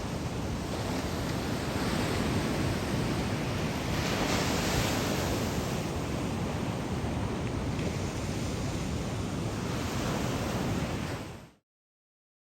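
Breaking ocean surf, heavy with typhoon swell, as a steady wash of noise with wind on the microphone; a wave surges louder about four seconds in. The sound cuts off abruptly near the end.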